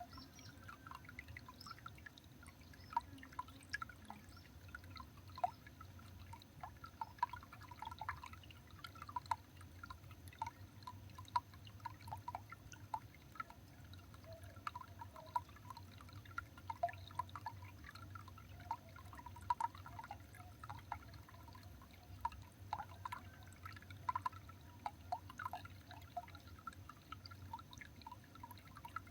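Water dripping and trickling: many short, irregular drops over a faint low steady hum.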